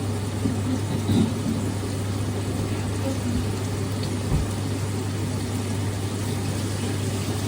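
Steady low machine hum with an even hiss behind it, and one short low thump about four and a half seconds in.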